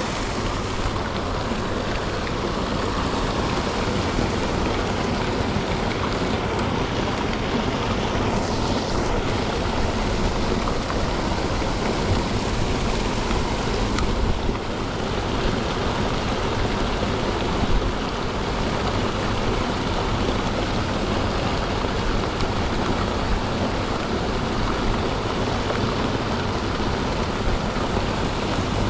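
Steady rushing of a seawater waterfall: seawater pouring in a constant stream into the harbour. A single faint tick sounds about halfway through.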